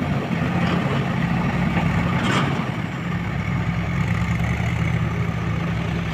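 Heavy diesel engine running steadily at low revs, with a brief metallic clank about two seconds in.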